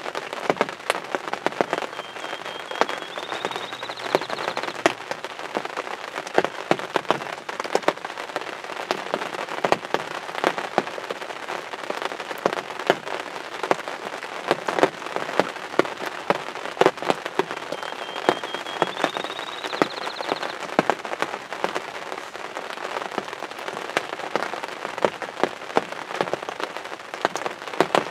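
Steady rain with many sharp drop ticks close to the microphone. A faint bird call comes twice, a few seconds in and again about two-thirds of the way through: a short rising whistle that ends in a brief trill.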